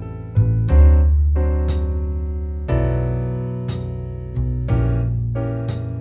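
Slow jazz backing track at 60 bpm: piano chords struck and left to ring over a bass holding long low notes, with a short high tick about every two seconds.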